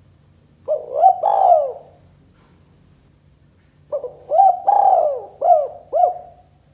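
Spotted dove cooing in two phrases of arching, hollow coos: a short phrase of about three notes about a second in, and a longer phrase of about five notes near the end.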